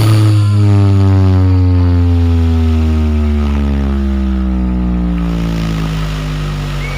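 Loud, deep sustained tone from a large MA Audio sound system with 12 subwoofers, slowly falling in pitch, like a bass sweep in a sound check.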